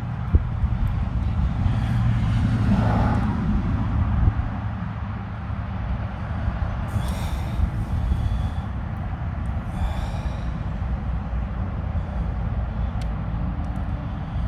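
Strong wind buffeting an outdoor microphone: a steady low rumble with a few brief gusty swells.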